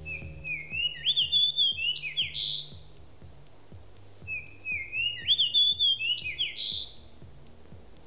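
A songbird singing two phrases. Each phrase lasts about two and a half seconds: a run of quick notes climbing in steps, ending in a harsher, fuller note.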